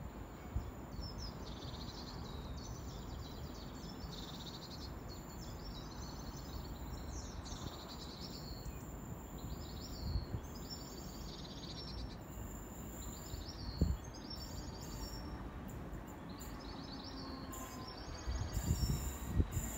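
Small birds chirping in short repeated phrases over a steady low outdoor rumble, with a few dull thumps and a rise in low rumble near the end.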